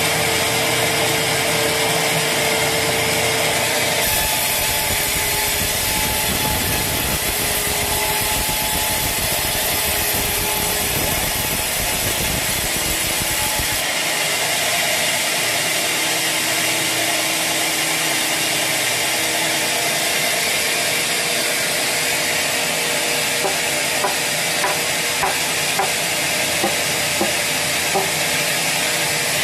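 Sawmill saw cutting through a teak log: a steady, loud machine noise of blade and wood. The noise changes abruptly twice, and a few light knocks come near the end.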